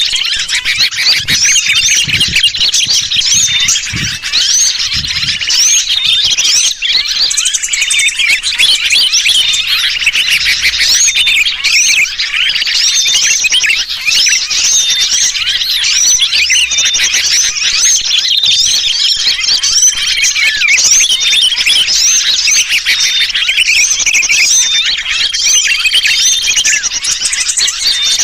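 Bird-lure recording: an unbroken, dense chatter of many small birds chirping, mixed with the distress calls of a trapped sooty-headed bulbul (kutilang kejepit), played to draw wild birds in.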